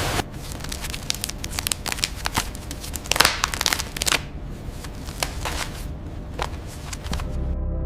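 Irregular dry crackling and clicking over a low steady hum. Background music comes in near the end.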